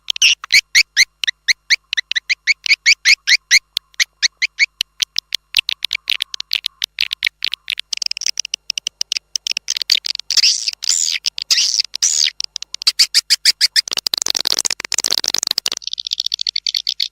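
Swiftlet call lure track: rapid high chirps repeating about five times a second, turning into denser, faster clicking chatter, with a harsher noisy stretch about 14 seconds in and a steady high trill near the end. This is the external call sound played from a swiftlet house to draw swiftlets in to roost and nest.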